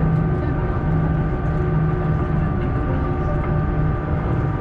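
Steady cabin drone of an Airbus A340-300 on the ground: a constant low hum with several steady whining tones above it, heard from inside the cabin.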